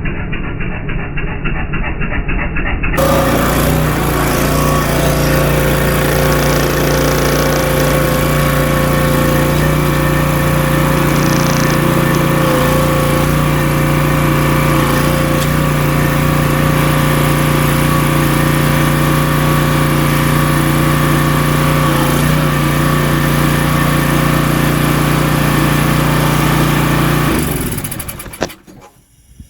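Single-cylinder gasoline engine of a pressure washer running steadily at speed, driving the pump that pressurizes the water, then shut off abruptly about two seconds before the end. The first few seconds sound muffled, with a rhythmic pulsing.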